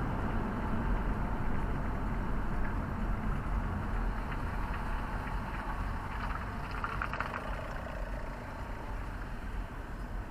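Car engine and road rumble heard from inside the cabin, steady and slowly easing off.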